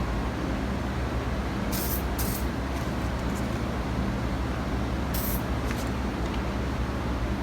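Aerosol spray-paint can sprayed in short bursts: two quick hisses about two seconds in and another a little after five seconds. A steady low rumble runs underneath.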